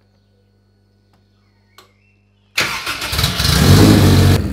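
Honda S2000 four-cylinder engine started with the ignition key. A faint click comes first, then the engine fires about two and a half seconds in and runs loudly.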